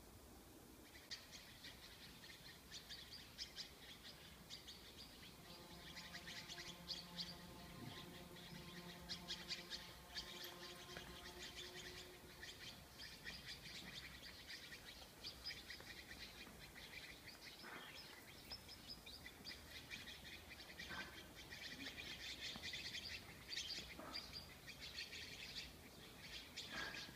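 Many small birds chirping and twittering, a dense run of short high calls. From about six to twelve seconds in, a faint steady droning tone sounds under them.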